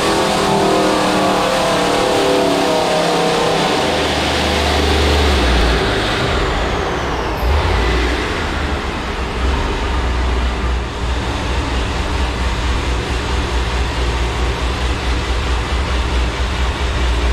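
Supercharged, cammed 5.7 Hemi V8 (D-1X ProCharger, long-tube headers, Borla exhaust) running hard on a chassis dyno at the end of a pull; about four to five seconds in it comes off the throttle, a high whine falls away, and the engine drops to a lumpy, unevenly pulsing idle.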